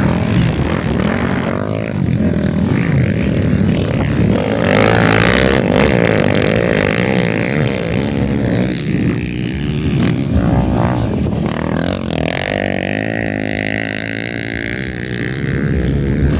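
Dirt bike engines revving hard on a motocross track, their pitch rising and falling with the throttle, strongest in two passes near the middle and toward the end.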